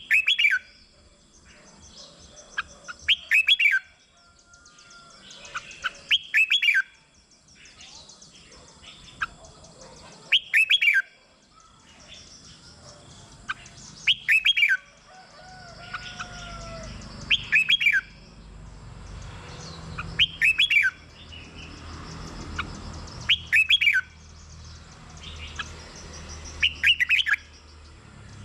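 Red-whiskered bulbul singing: a short, loud phrase repeated about every three seconds, with fainter chirps between. A low rumble comes up in the background from about halfway.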